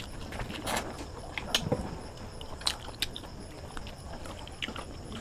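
Close-up chewing and lip-smacking on a handful of chicken biryani eaten by hand: irregular wet clicks and smacks, a few louder ones about a second and a half in and near three seconds.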